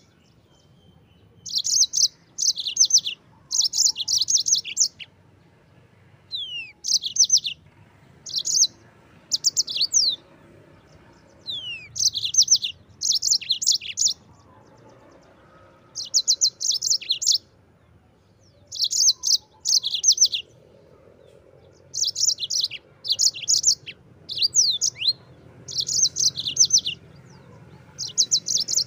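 Yellow-fronted canary (Mozambique canary) singing: short, fast, high trilled phrases of about a second each, repeated over and over with brief pauses between them.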